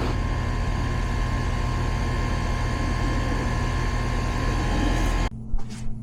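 Goodman air-conditioning system running with a steady hum and a thin, constant whine. A little over five seconds in, the sound drops abruptly to a lower hum, followed by a couple of short knocks.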